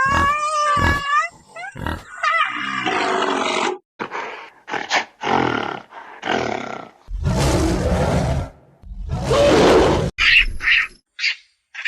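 A string of animal calls: wavering pitched cries at first, then a series of separate rough, noisy roars and grunts, each under a second or so, and a few short high calls near the end.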